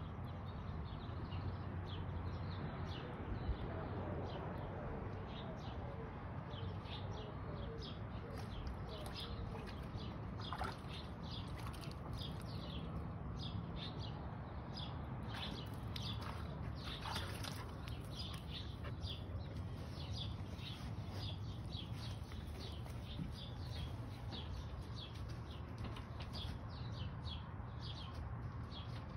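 Small birds chirping: many short high chirps, repeated throughout, over a steady low background noise.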